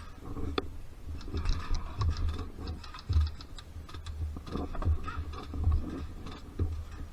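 A string of irregular, unevenly spaced clicks and taps over low thumps.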